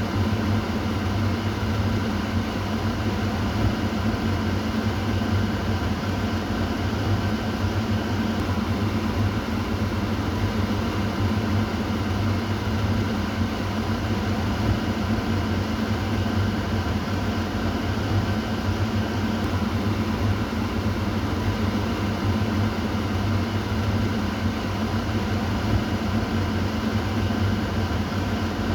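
Kitchen exhaust fan running steadily: a constant whoosh of moving air over a low motor hum.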